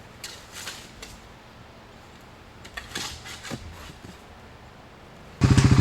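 A few faint scrapes and knocks, then near the end a small engine starts abruptly and runs loudly with a rapid, even pulsing.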